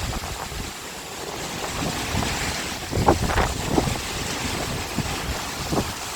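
Strong wind gusting and buffeting the microphone, with a few brief rustling knocks.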